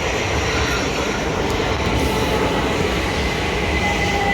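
Electric passenger train running into the station past the platform: a steady rumble of wheels and motors, with thin high whines coming in during the second half and drifting slightly lower in pitch as it slows.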